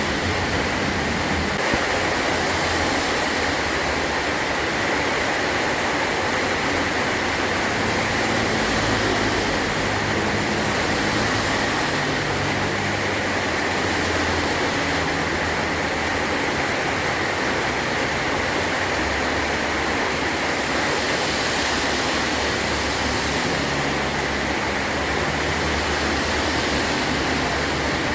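Heavy rain drumming steadily on a metal roof, a dense even hiss with no pauses.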